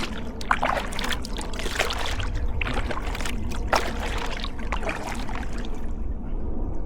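Sea kayak paddle strokes, the blades dipping and shedding water in irregular splashes, over a steady low rumble.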